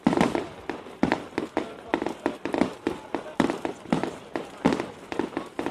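Fireworks going off in a rapid, irregular string of bangs, several a second, each bang trailing off briefly.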